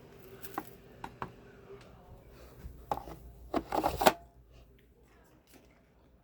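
Handling of a manual carpet sweeper with a full dirt bin: a few sharp plastic clicks, then a burst of rattling, crackling clatter about three to four seconds in.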